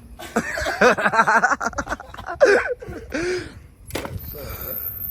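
Excited untranscribed voices exclaiming and laughing, with scattered clicks and clatter, and one sharp knock about four seconds in.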